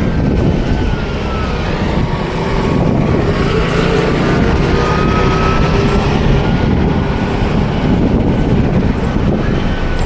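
Steady rumble of a moving vehicle or road traffic, with a faint whine that sinks slowly in pitch and then climbs again.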